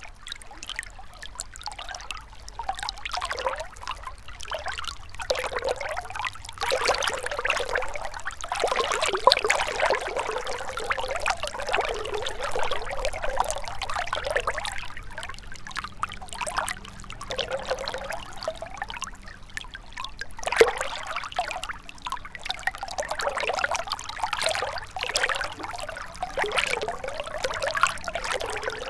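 Gentle river flowing and gurgling, its babbling swelling and easing every few seconds.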